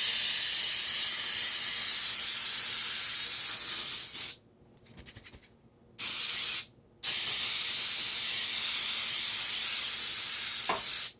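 Aerosol coconut cooking spray hissing in three sprays onto cut avocado: a long one of about four seconds, a short one of under a second, then another long one of about four seconds.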